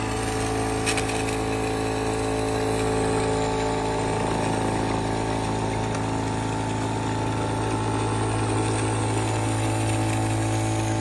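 Nescafé Dolce Gusto capsule coffee machine's pump running during brewing: a loud, steady buzzing hum.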